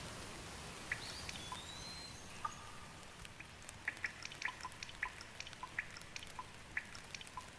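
Rain falling as a steady hiss, with close drops dripping and plinking irregularly, thicker in the second half. A single short whistled bird call comes about a second in.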